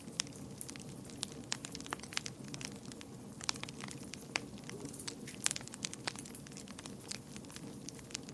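Wood fire in a fireplace crackling, with irregular sharp pops over a steady low rumble of flame; the pops come thickest and loudest about halfway through.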